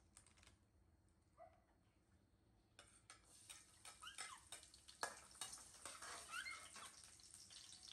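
Food starts sizzling in a hot steel wok about three seconds in, with a metal spatula clicking and scraping against the pan. Faint short squeaks from baby macaques come now and then.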